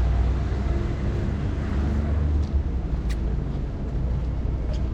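Street traffic: a motor vehicle's steady low engine rumble, with a faint click about three seconds in.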